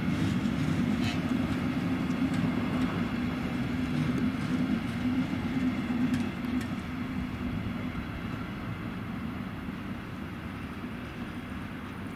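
A train running on the tracks with a steady low hum that fades away after about six seconds, as it moves off or passes.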